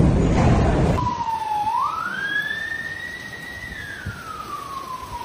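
Wind buffeting the microphone for about the first second, then an abrupt change to an emergency vehicle siren wailing: its pitch rises, holds, falls slowly and starts to rise again near the end.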